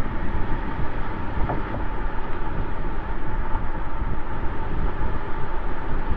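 Exhaust of a Mercedes-Benz S600's twin-turbo V12 while driving, picked up by a microphone mounted outside near the tailpipe: a steady low rumble mixed with road and wind noise, holding an even pitch with no revving.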